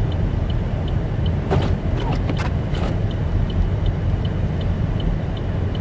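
Steady road and engine rumble inside a car driving slowly on a snowy highway. A quick, regular ticking from the hazard-light flasher, two to three ticks a second, runs under it.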